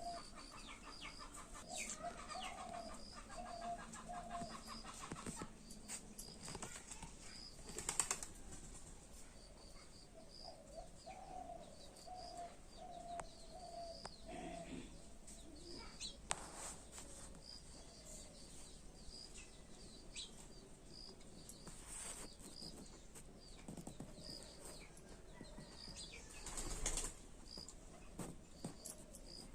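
Birds calling: rows of short, high chirps and runs of lower repeated cooing notes, with scattered crackles and rustles between them.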